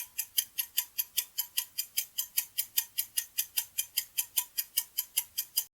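Clock-ticking countdown sound effect of a quiz timer, about five ticks a second, counting down the time to answer. The ticking stops suddenly near the end.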